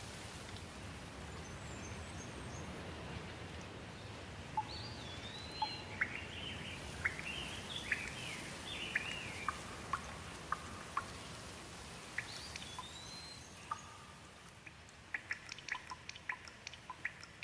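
Steady rain with birds calling over it, a few rising-and-falling chirps in the first half. Toward the end the rain's hiss eases a little and a quick run of sharp drips takes over.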